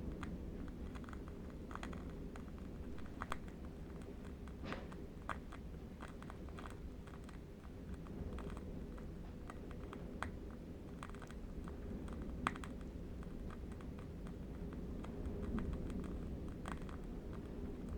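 Irregular light crackling clicks, scattered through, over a steady low rumble: ambience of a burning candle wick crackling with distant wind.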